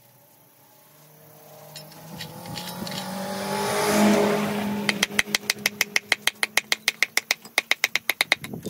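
A motor grows louder to a peak about four seconds in, then gives way to rapid, even tapping at about eight knocks a second that stops near the end.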